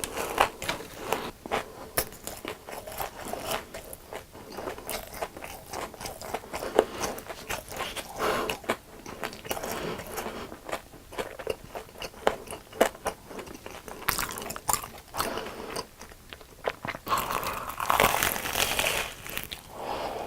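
Close-miked chewing of fried food, with repeated crisp crunches and wetter mouth sounds between them.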